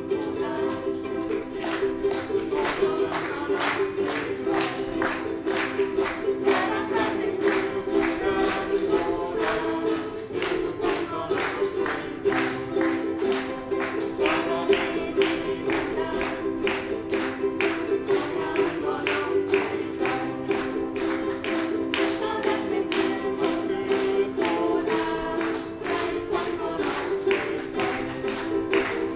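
Live ensemble music: strummed string instruments keeping a fast, even rhythm while a group sings along.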